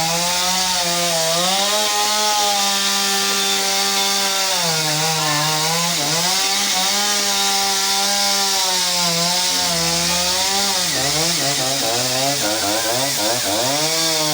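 Two-stroke chainsaw running at high revs while cutting a fallen tree, its engine note sagging and rising again every second or two as the chain loads up in the wood and frees.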